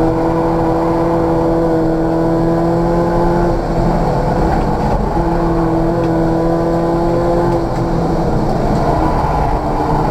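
Opel Corsa C GSI's 1.8-litre four-cylinder Z18XE engine heard from inside the cabin, pulling hard at a steady high pitch around 5000 rpm on a race circuit. Its note thins briefly about three and a half seconds in and again near eight seconds, then comes back.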